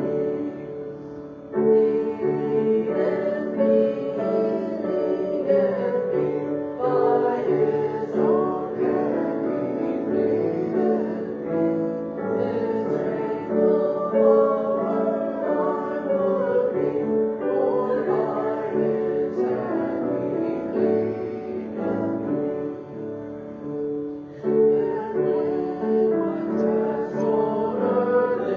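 Church music: voices singing with piano accompaniment.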